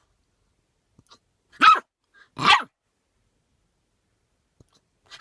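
Puppy giving two short, sharp barks less than a second apart, each dropping in pitch.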